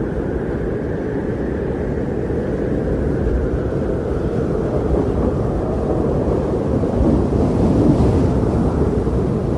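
Strong blizzard wind blowing in a steady low roar, gusting up a little near the end.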